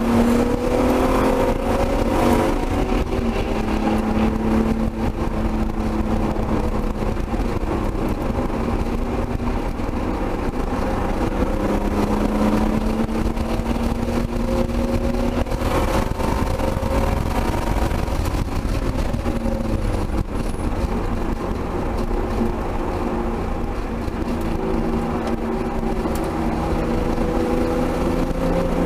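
Turbocharged 1999 BMW M3 (E36) inline-six engine under load at track speed, heard from inside the cabin over road and wind noise. It climbs in pitch over the first couple of seconds, holds steady for a long stretch, eases and changes pitch around the middle, and rises again near the end.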